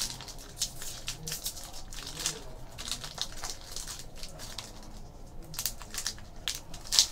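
Trading card packs being handled: foil wrappers crinkling and cards rustling in irregular short crackles, with a sharper crackle near the end.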